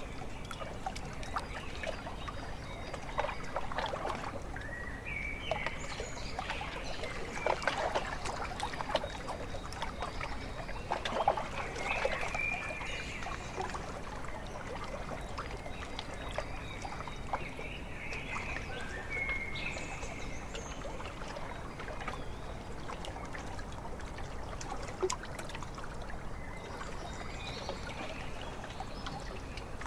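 Small waves lapping and trickling at a lake shore, with many small splashes that are busiest in the first half. Birds call briefly now and then over it.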